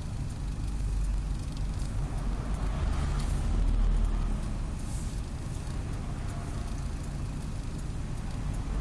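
Road and drivetrain rumble inside a moving Subaru Legacy BH5 wagon's bare cargo area, swelling and easing a few seconds in, with a few faint light ticks.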